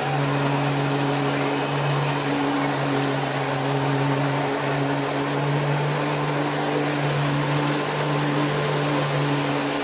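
Heavy diesel truck engine running at a steady speed: a constant droning hum over broad noise, with no revving or change in pitch.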